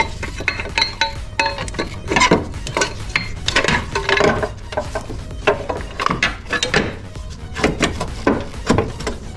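Metal tools and engine parts clinking and knocking at irregular intervals during hand work on an engine, some strikes ringing briefly.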